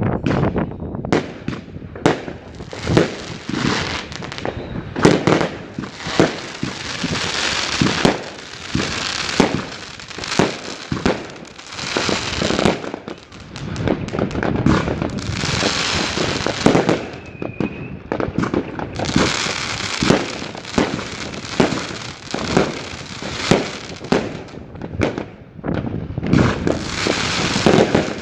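Large fireworks display: a dense, continuous run of bangs from bursting shells, several a second, with crackling between them.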